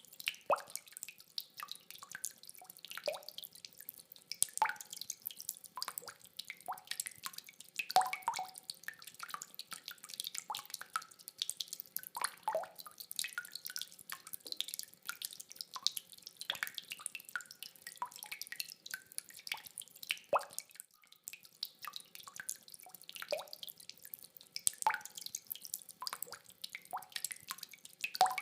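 Rain water dripping, with many irregular drops falling one after another.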